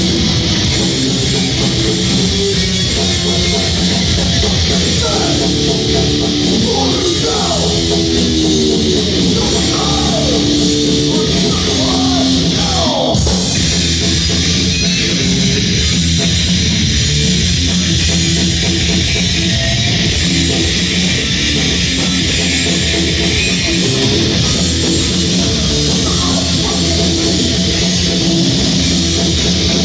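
Crossover thrash band playing loud and fast on stage: distorted electric guitars, bass and drums. Gliding, bending guitar notes stand out for several seconds in the first half.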